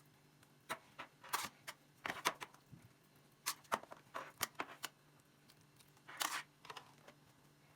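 Irregular short rustles and clicks, in several small clusters, of things being handled.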